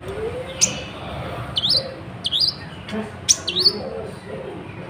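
Kolibri ninja sunbird singing a string of sharp, high chirps that repeat every half second to a second, several of them quick dipping-and-rising sweeps. Its song carries learned imitations of the cabak iblis nightjar's call.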